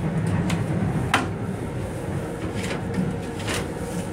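Steady low rumble of an M7 electric railcar in motion, heard from inside its small restroom, with a few sharp clacks over it, the sharpest about a second in.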